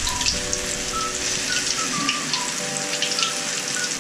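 Battered cha-om (acacia shoots) deep-frying in a wok of hot oil, just lowered in: a dense, even sizzle and crackle of bubbling oil.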